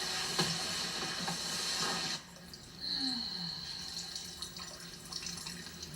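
Running water in a bathroom: a steady stream that cuts off about two seconds in, followed by a softer trickle that slowly fades.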